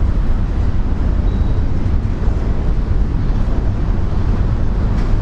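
Steady wind buffeting the microphone, a loud low rumble, with an even hiss of heavy rain behind it.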